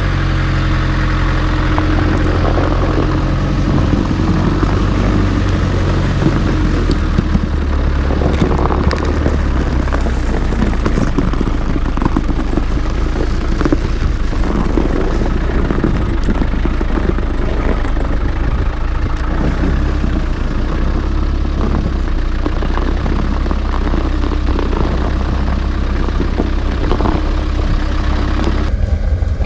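Land Rover Defender 90 being driven, its engine running with a steady low drone that shifts in pitch a few times, with clicks and rattles over it. The higher hiss drops away abruptly near the end.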